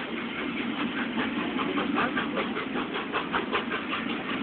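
Passenger coaches of a departing steam-hauled train rolling past close by. A quick, even run of beats, about five a second, comes through the middle.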